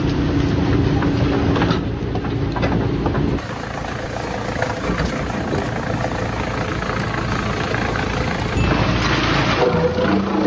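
Engine of a large machine running steadily, with a low hum. The sound changes abruptly about three and a half seconds in and again near the end.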